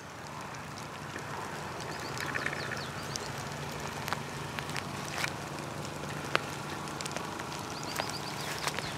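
Light rain pattering on the dry leaves and scrub of the caatinga, an even hiss with scattered sharp drop ticks.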